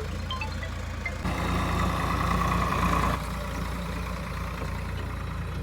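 Farm tractor's diesel engine running steadily, with a louder stretch of about two seconds near the middle.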